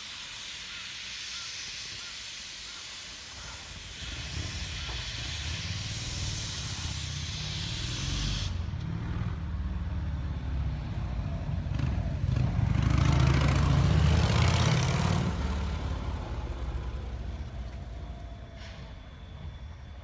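Steam locomotive releasing a steady hiss of steam while its heavy rumble builds. The rumble is loudest about two-thirds of the way through, with a strong burst of steam hiss, then dies away as the train moves off.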